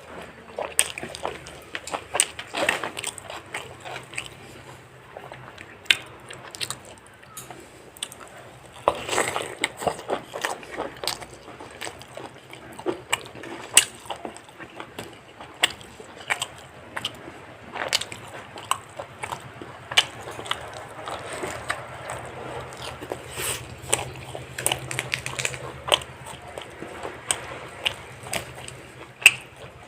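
Close-miked eating of fried chicken: crunchy bites and chewing, with many sharp, irregular clicks and crackles throughout.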